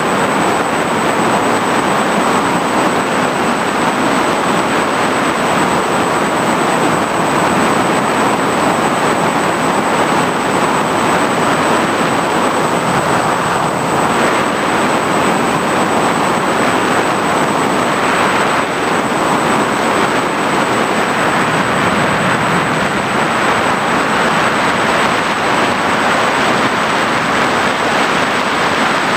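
FPV drone's electric motors and propellers running steadily in flight: a loud, even rushing noise with a thin high whine over it.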